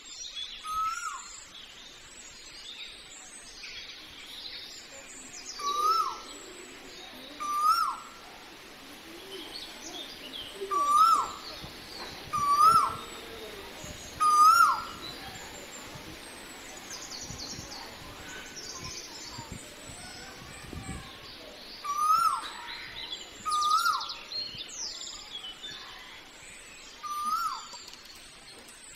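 A bird calling loudly and repeatedly, each call a short note that rises and then drops away, given in twos and threes about a second and a half apart. Smaller birds chirp faintly throughout.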